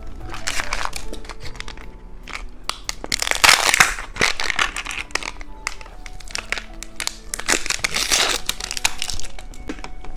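Crinkling and crunching from candy being handled and eaten, close to the microphone, in three loud spells, over light background music.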